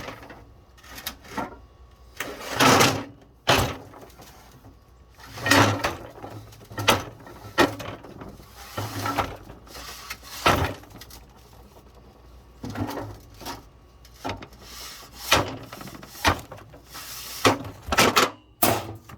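Irregular clunks, knocks and scrapes of metal parts being handled and slid onto a hydraulic cylinder rod during reassembly.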